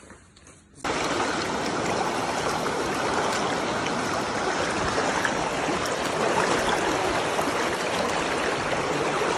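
A steady rush of running water that starts abruptly about a second in and keeps going evenly.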